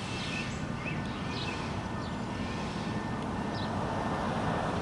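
Steady low outdoor rumble with a few short, high chirps every second or so.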